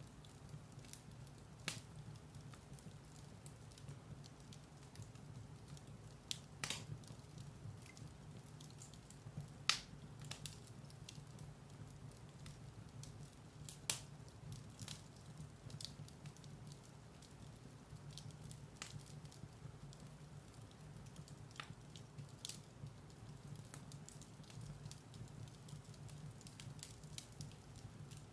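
Firewood burning in a fireplace, crackling with scattered sharp pops and snaps over a steady low rumble of the fire; the loudest pops come about 7, 10 and 14 seconds in.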